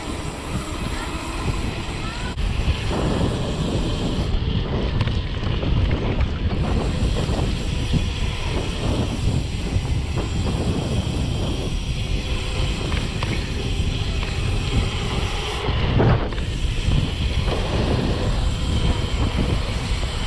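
Wind buffeting the microphone of a mountain bike's POV camera while the bike is ridden, with steady rattling and knocking from the bike.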